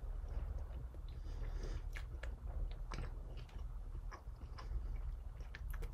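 A person chewing a mouthful of meatball with soft, irregular mouth clicks, over a low steady hum.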